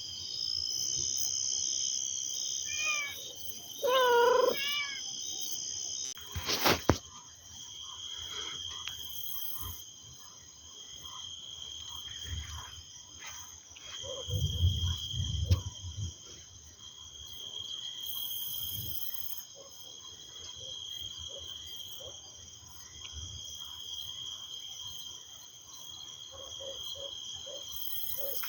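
Insects chirring steadily in several high, even tones. Drawn-out wailing animal calls rise and fall about three to five seconds in, a sharp knock comes near seven seconds, and a low rumble of distant thunder swells for about two seconds midway.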